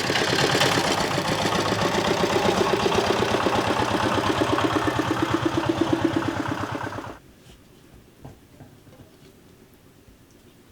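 A motor-driven machine running with a fast, even pulsing, stopping abruptly about seven seconds in.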